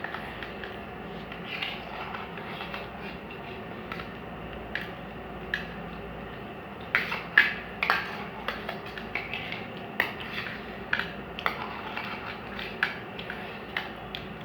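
Spoons clinking and scraping against plates in quick, irregular taps as two people eat rice pulao fast.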